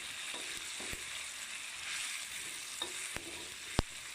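Onions, tomatoes and lemongrass sizzling in hot oil on a tawa while being stirred, with a few sharp knocks of the utensil against the pan, the loudest near the end.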